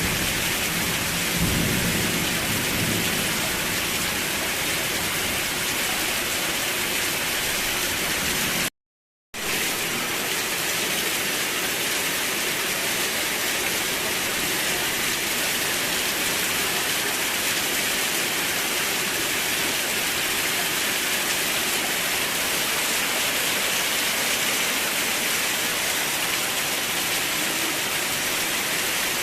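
Steady heavy rain hissing, with the tail of a low thunder rumble dying away in the first couple of seconds. The sound cuts out completely for about half a second roughly nine seconds in, then the rain carries on unchanged.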